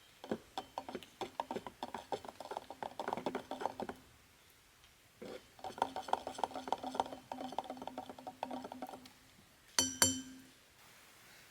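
A spoon stirring hot chocolate in a mug, clinking quickly against the side in two runs of about four seconds each, then one louder clink near the end.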